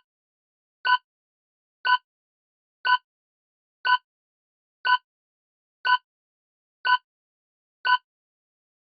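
Quiz countdown timer sound effect: short, bright ticks about once a second, nine in all, with silence between them.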